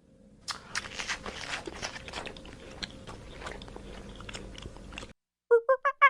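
Crunching and chewing with sharp crackles, typical of an animal eating, stopping abruptly after about four and a half seconds. Near the end a bird starts a fast run of pitched calls, about five a second.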